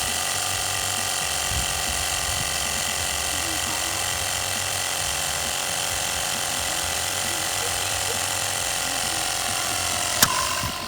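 Air pump running steadily as it pressurises an empty bottle rocket on its launcher, then one sharp pop about ten seconds in as the bottle releases and launches.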